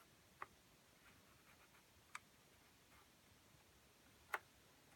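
Near silence broken by about four faint, separate clicks of plastic model-train packaging being handled, the loudest near the end.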